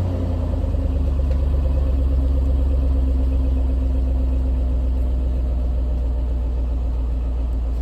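Cadillac 4.6 L Northstar V8 (LH2) idling steadily shortly after a cold start, a low even hum with no change in speed.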